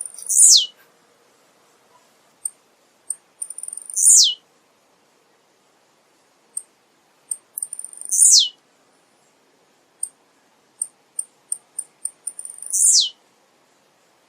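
Male blue-black grassquit (tiziu) singing: four short songs about four seconds apart. Each is a sharp note sweeping steeply down from very high, led by a few quick, soft, high ticks.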